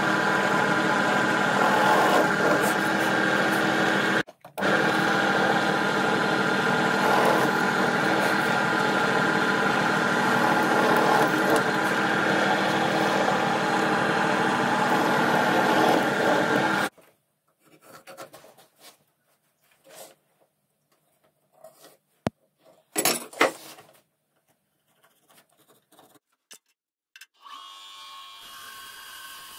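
A power tool motor running steadily for most of the first seventeen seconds, briefly cutting out about four seconds in, then stopping. After it, a few scattered light taps and knocks, and a fainter steady hum near the end.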